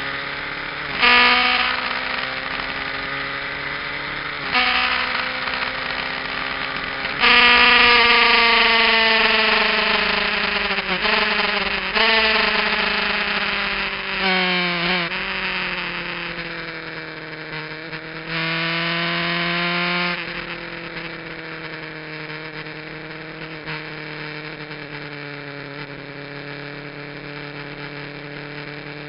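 Kawasaki GPZ900R's inline-four engine under hard riding, pitch and level changing with throttle and gears: the throttle is snapped open several times, loudest about seven seconds in, with quick drops in pitch around the middle and steadier, quieter running over the last third.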